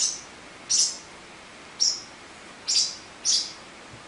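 Young lovebirds, about five to six weeks old, chirping: five short, high chirps at uneven intervals.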